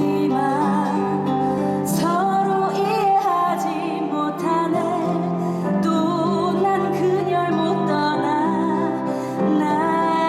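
Musical theatre song: a singer holds and shapes long notes with vibrato over a steady instrumental accompaniment.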